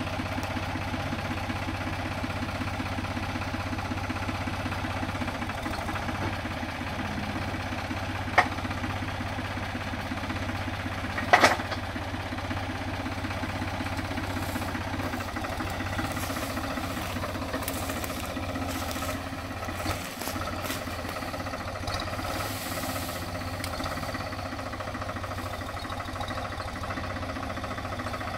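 A small motor running steadily at an even pace, with two sharp clicks about eight and eleven seconds in.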